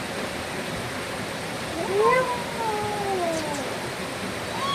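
An animal's drawn-out call about two seconds in, rising briefly and then falling over about a second and a half, and a short rising call near the end, over a steady hiss of background noise.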